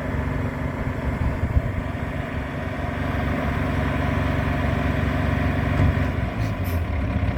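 Diesel engine of a 2012 Peterbilt 348 rollback truck idling steadily, with a brief hiss about six and a half seconds in.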